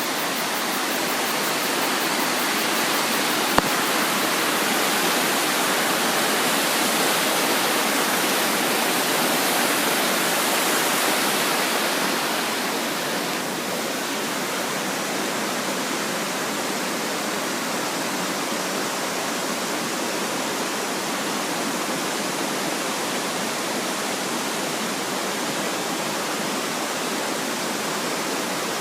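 Creek water rushing over rocks in a steady, even roar, easing slightly after about twelve seconds. A single brief click sounds about three and a half seconds in.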